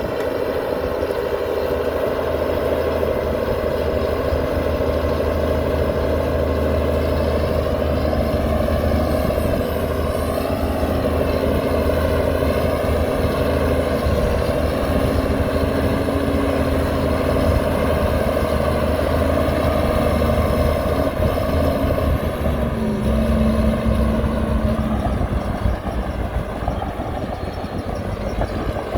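Heavy diesel construction-machine engine running steadily under load, with a constant low drone.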